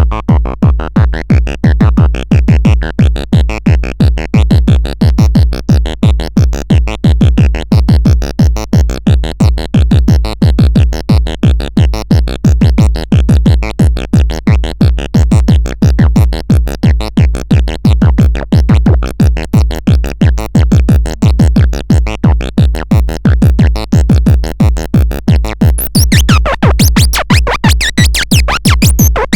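Electronic synthesizer music: a loud, steady pulsing pattern of several pulses a second over a deep bass. Near the end, wavering high-pitched tones come in on top.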